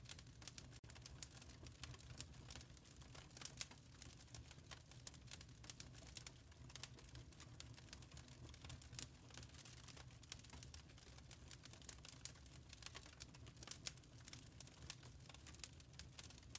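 Wood fire crackling in a fireplace, faint and continuous: many small irregular pops and snaps over a low, soft rumble of the flames.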